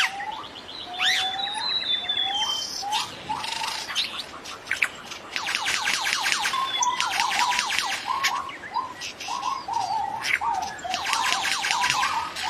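Great argus calling: a series of short upward-slurred notes, repeating and coming closer together from about halfway through. Rapid high chattering from other forest birds runs alongside.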